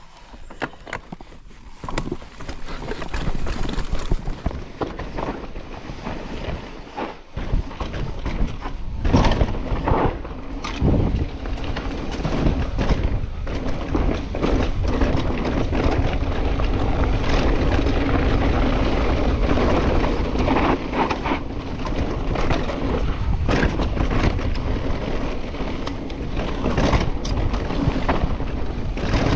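Mountain bike riding down a dry dirt trail: tyres rolling over dirt, with the bike's chain and frame rattling and knocking over bumps and wind buffeting the microphone. It builds a couple of seconds in and gets louder about eight seconds in as speed picks up.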